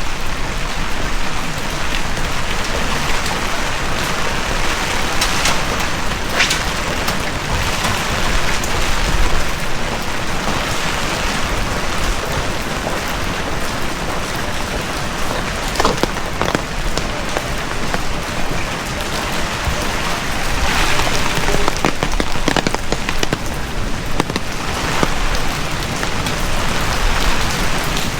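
Heavy rain falling steadily, a dense even hiss, with occasional sharper drops or splashes standing out close by.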